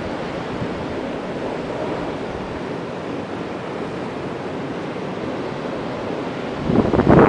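Blizzard wind blowing as a steady rush. Near the end, gusts start hitting the microphone with loud buffeting.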